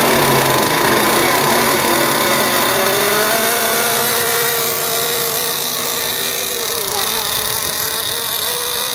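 Team Associated MGT 8.0 nitro RC monster truck's small glow-fuel engine running, its pitch rising and dipping with the throttle.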